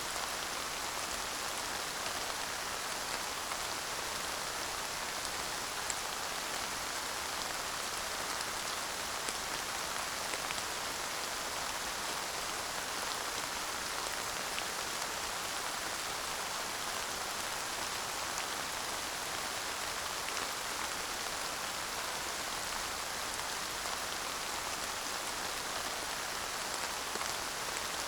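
Steady light rain falling, an even hiss of raindrops with faint scattered drop ticks and no thunder.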